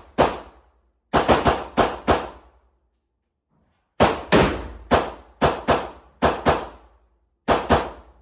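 Rapid gunfire at a shooting range: about seventeen sharp shots in three clusters, many only a fraction of a second apart, each with a short ringing tail.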